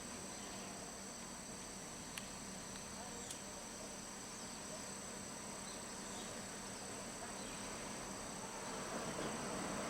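Insects trilling steadily at a high pitch, with two short sharp ticks in the first half and a low hum and noise that grow slightly louder near the end.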